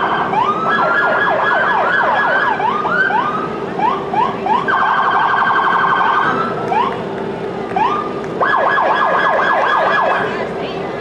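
Electronic emergency-vehicle siren sounding in short bursts, switching between rapid rising yelps and a fast warbling tone, over a steady low hum.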